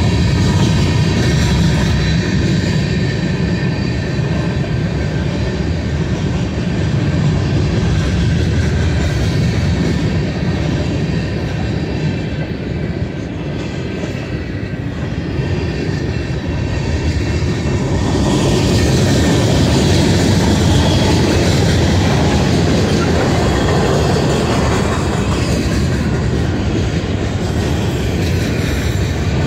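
Cars of a Union Pacific mixed-freight manifest train rolling past: a steady low rumble of steel wheels on the rails with some clickety-clack. About two-thirds of the way through the sound grows brighter and louder.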